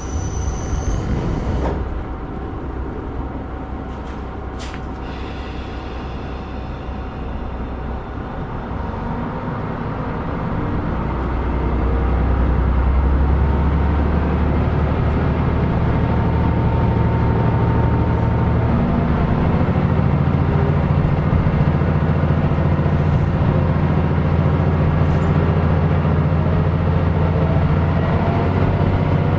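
KiHa 125 diesel railcar pulling away: a short high electronic tone at the very start and a few knocks, then the diesel engine comes up under power from about ten seconds in, running loud and steady, its note stepping up in pitch about nineteen seconds in.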